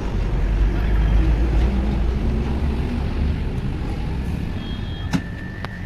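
Low motor-vehicle rumble, loudest in the first three seconds and then easing off, with a sharp click about five seconds in.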